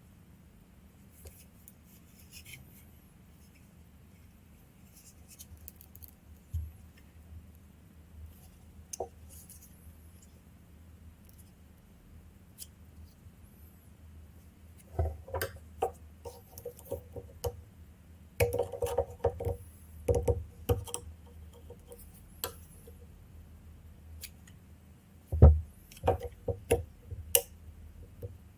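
Small metal and plastic parts of a motorcycle ignition switch clicking, tapping and scraping as it is prised open and taken apart by hand, with sparse clicks at first and a busier run of knocks and rattles over the second half.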